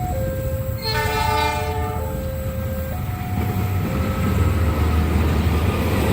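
A locomotive horn sounds one blast of about a second, about a second in, over the level crossing's electronic warning signal alternating between two pitches. From about halfway on, the rumble of the approaching train grows louder.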